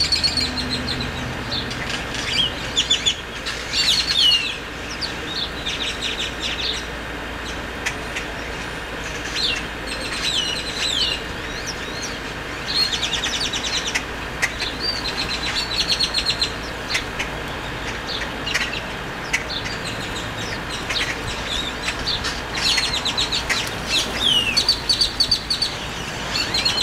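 Birds calling over and over: short whistled notes and rapid rattling runs of ticks, louder around four seconds in and again near the end.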